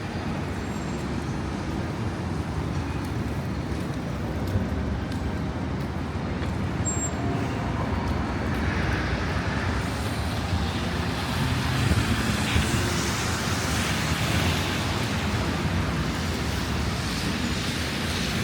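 Steady city street noise of traffic, with a deep wind rumble, growing fuller and hissier about halfway through.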